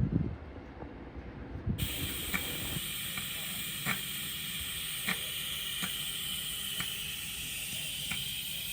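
A steady hiss like escaping steam, starting suddenly about two seconds in, with a light tick roughly once a second. Low rumbling and a few thumps come before it.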